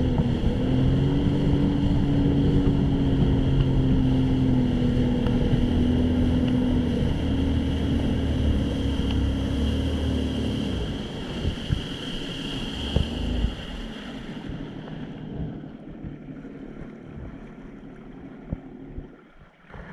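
Jet ski engine running steadily under way, with wind and water noise. About eleven seconds in it throttles back and fades, leaving quieter water and wind noise.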